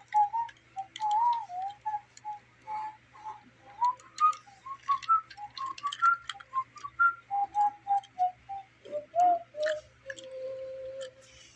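A person vocalizes a wordless 'do-do-do' tune: a run of short notes climbing in pitch, then falling back, ending in one long held lower note. Light clicks of toy trains being handled sound throughout.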